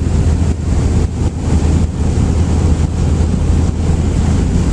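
Wind buffeting the microphone: a steady, loud low rumble with a rushing hiss over it.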